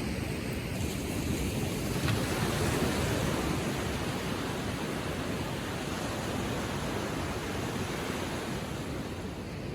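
Gentle Atlantic waves lapping on the shore, a steady wash of surf that swells about two seconds in and then slowly eases.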